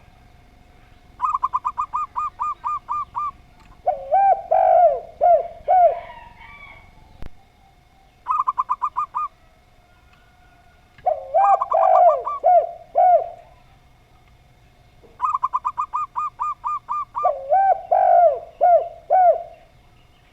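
Zebra dove (perkutut) and spotted dove (derkuku/tekukur) cooing. Three times over, a quick run of about eight short, even notes is followed by a lower group of rounded cooing notes. A faint steady tone sounds underneath.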